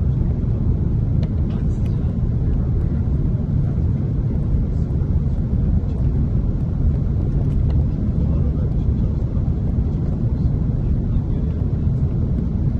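Steady low rumble inside the cabin of an Airbus A330-300 airliner: engine and airflow noise heard by a passenger, even throughout with no distinct events.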